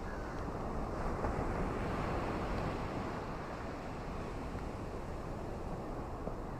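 Ocean surf washing onto a beach: a steady rush of sea noise, with one wave swelling louder about a second in and easing off again.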